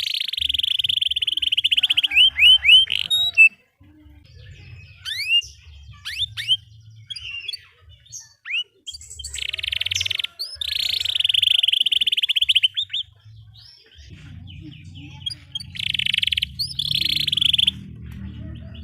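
Domestic canary singing in long, fast trills (rolls) broken by quick rising chirps, in several bursts separated by short pauses. A low hum runs underneath and grows louder near the end.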